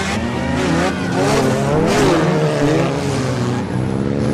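Several demolition derby cars' engines revving hard at once, their pitches rising and falling against one another, over a steady rushing noise, with louder, rougher moments about one and a half to two seconds in.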